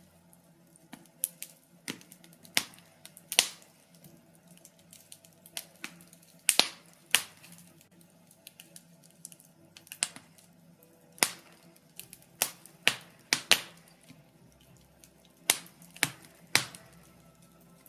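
Birch logs burning in a fireplace, crackling and popping at irregular intervals, with a few louder sharp pops among many small crackles.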